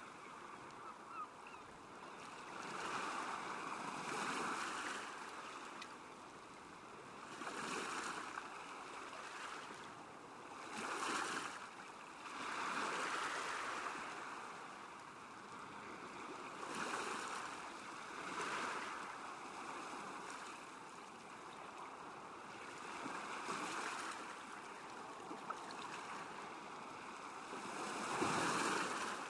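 Small waves washing against a lakeshore, swelling and easing irregularly every few seconds.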